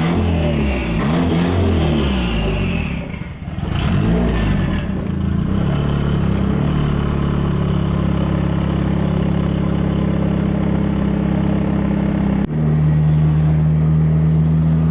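Turbocharged SR20DE four-cylinder engine of a Nissan Sentra driving, its note rising and falling for the first few seconds with a short dip about three seconds in, then holding steady. Near the end a click and a sudden step to a new, louder steady engine note.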